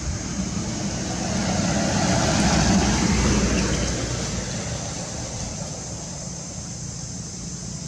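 A motor vehicle passing by, its sound swelling and fading over about three seconds, over a steady high hiss.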